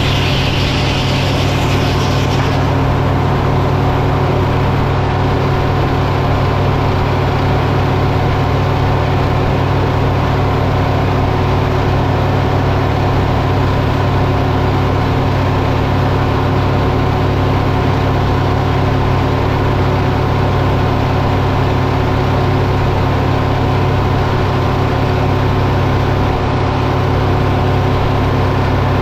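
Diesel engine running at a steady speed, with a short hiss over it in the first two seconds.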